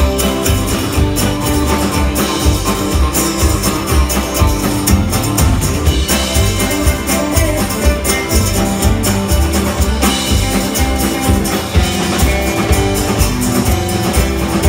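Instrumental band music: guitar over a steady, regular bass and drum beat, with no singing.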